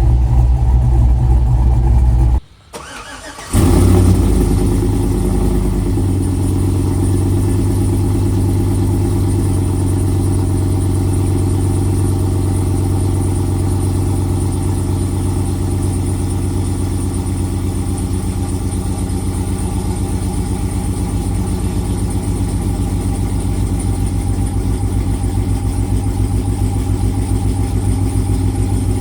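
Cammed 5.3L V8 of a 2007 Chevrolet Suburban, breathing through long-tube headers with no catalytic converters, a Flowmaster 40-series-style muffler and the stock resonator. It runs, cuts out for about a second, then starts again with a flare of revs and settles into a steady, rhythmically pulsing idle.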